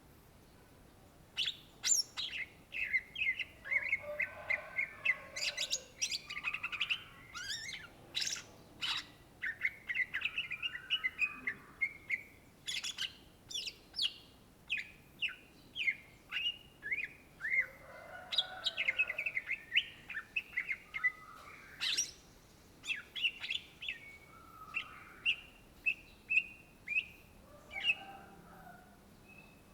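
Greater green leafbird (cucak ijo) singing a long, rapid run of varied chirps, whistles and sliding notes, starting about a second and a half in.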